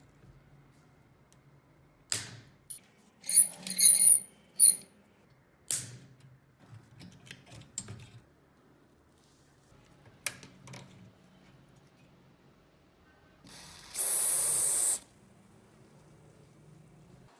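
Metal parts of an old rusty fan knocking and clinking as they are handled, a few with a short metallic ring, then a loud hiss lasting about a second and a half, like a spray.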